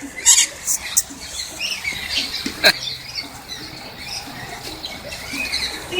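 A flock of small birds chattering with quick, high squeaky chirps, broken by a few sharp squawks near the start and partway through.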